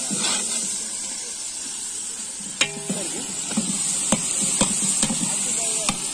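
Sliced onions and tomatoes sizzling in hot oil in a large aluminium pot, stirred with a long metal ladle. The ladle scrapes and knocks against the pot several times from about halfway, the first knock the loudest.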